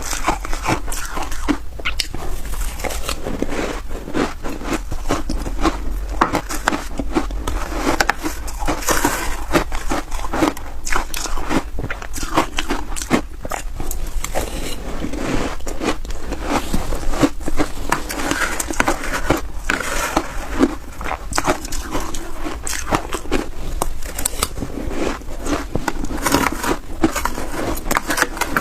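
A person biting and chewing snow ice up close: dense, irregular crisp crunches that go on throughout, over a steady low hum.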